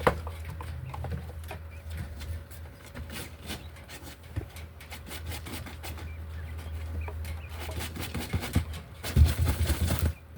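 Pet birds clucking, with scattered light tapping and scratching over a steady low hum. A rapid flurry of louder taps comes near the end.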